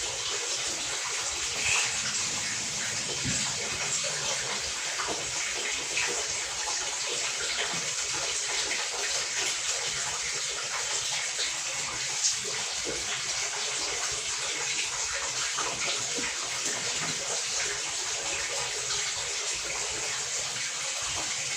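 Water running in a steady rush, with a small knock about twelve seconds in.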